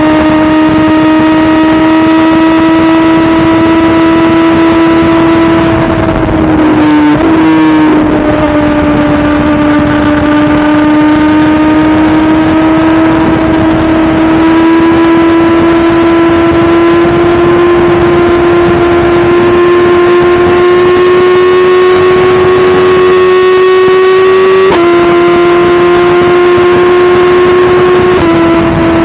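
2017 BMW S1000RR's inline-four engine pulling steadily at high revs, its note slowly climbing. The pitch dips and flutters briefly around six to eight seconds in, jumps up sharply about 25 seconds in and steps back down near the end, the way revs change with gear shifts.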